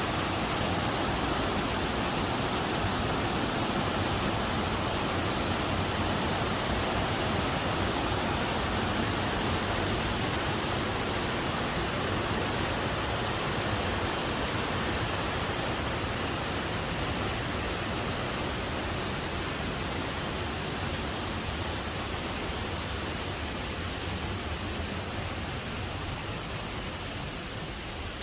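Steady rushing of water from a mountain stream, an even hiss with no distinct events, growing slowly quieter over the last several seconds.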